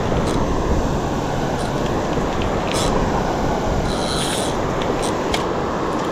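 Fishing reel being cranked with a ratcheting whir as a hooked drum is reeled in, with several short bursts of clicking, over the loud, steady rush of a waterfall.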